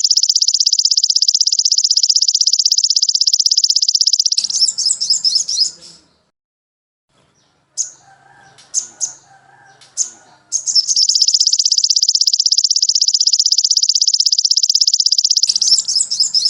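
A songbird singing a very fast, high, even trill for about five seconds, breaking into choppy notes, then a pause with a few short chips, then a second long trill of the same kind.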